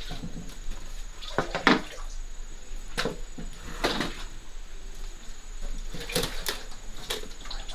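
Scattered knocks and clicks of kitchen work, with things being handled and set down, about six times over a low background hum.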